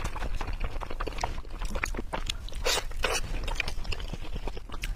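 Close-up chewing and crunching of a crispy fried roll: a quick, uneven run of short crunches with a louder one a little past the middle.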